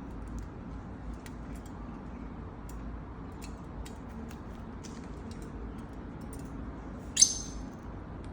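Lovebird bathing: faint scattered small ticks and splashes over a steady low hum, with one short, loud, shrill sound about seven seconds in.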